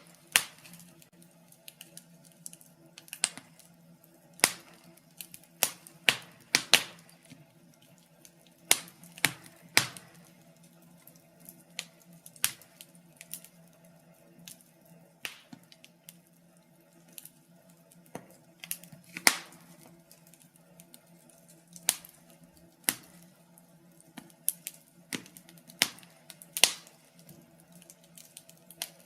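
Wood fire crackling in a fireplace: irregular sharp pops and snaps, some close together and some a second or more apart, over a faint steady hum.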